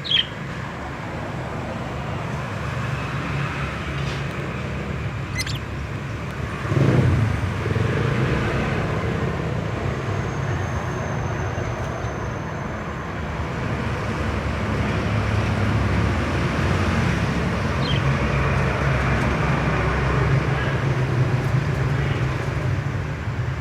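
Steady low rumble like road traffic, swelling about seven seconds in, with a few short high chirps now and then.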